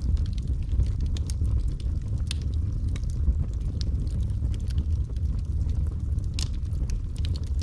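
Wood fire burning with a steady low rumble and irregular sharp crackles and pops of the burning wood, a few louder pops standing out.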